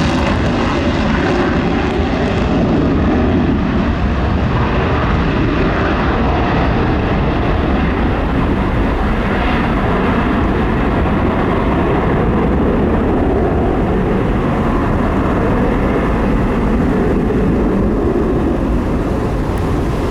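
Military jet engines running at takeoff power as the aircraft departs, a loud and steady noise throughout.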